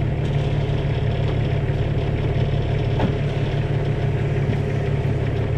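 Diesel semi-truck engine idling steadily, with one brief knock about three seconds in.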